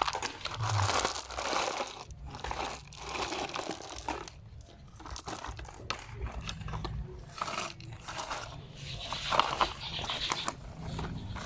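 Irregular crunching and rustling handling noises, with scrapes and clicks that come and go, loudest about a second in and again near the end.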